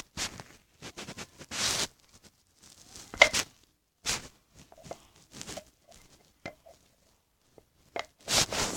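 Scattered clicks, taps and short rustling bursts as slime-making materials and containers are handled and mixed by hand.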